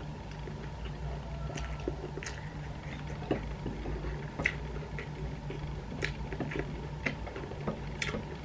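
Close-up mouth sounds of chewing fried jengkol and rice: soft squishes and wet smacks with scattered small clicks as fingers work the food, over a steady low hum.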